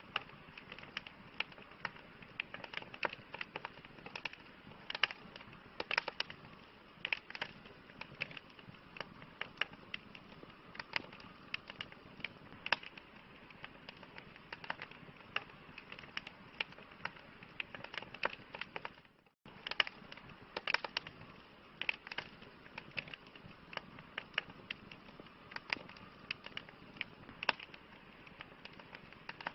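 Wood fire crackling: irregular sharp pops and snaps over a soft steady hiss. The sound cuts out completely for a split second about two-thirds of the way through, then resumes.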